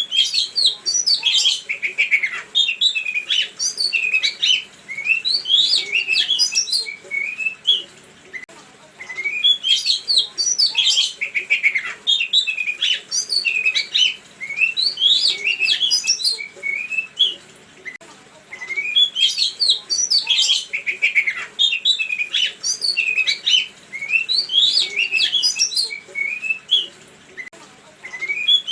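Songbird song from a repeating lure recording: long phrases of rapid, varied chirps and whistles, each several seconds long with short pauses between, the pattern repeating about every ten seconds.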